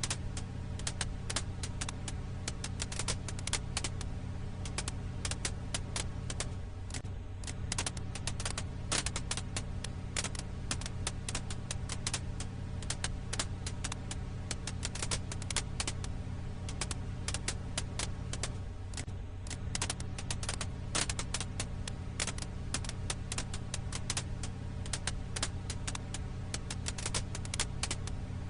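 Firewood crackling in a campfire: many sharp, irregular pops and snaps over a steady low hum.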